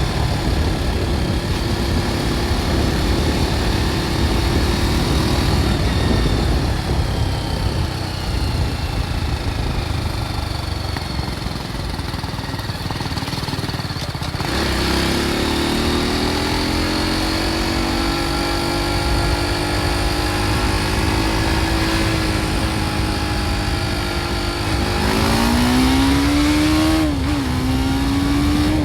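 BMW G310 R's single-cylinder engine through its stock exhaust while riding, mixed with wind rush. The engine note sinks under the wind for several seconds, then rises as the bike accelerates about halfway through, holds steady, and climbs again near the end with a brief dip at a gear change.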